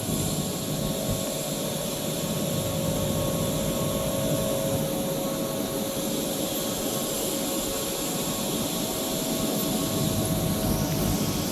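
Steady running noise of industrial machinery: an even hum and hiss with a few constant whining tones, unchanging throughout.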